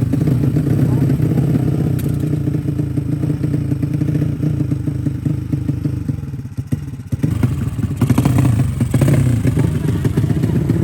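Drag-tuned underbone motorcycle engine running, its note dipping briefly about six and a half seconds in and then picking up again.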